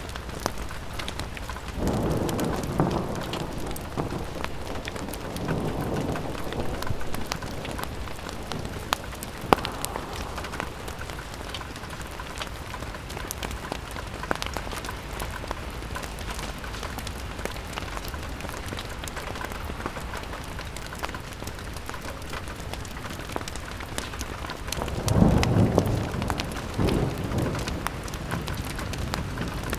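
Steady rain pattering on a window, with a fire crackling in sharp pops throughout. Low rumbling swells rise and fade a few times, the loudest near the end.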